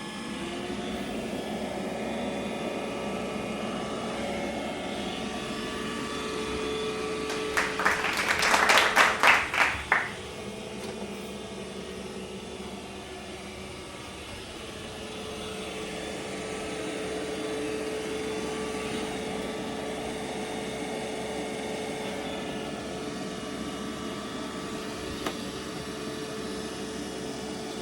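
Robot vacuum cleaner running with a steady whirring hum. About eight seconds in, a loud rapid rattling clatter lasts about two seconds, then the steady hum goes on.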